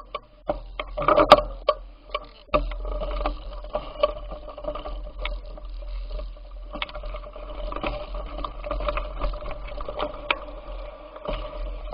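Bicycle in motion: a steady hum with frequent rattles and clicks, and a low rumble that starts about two and a half seconds in and drops away near the end.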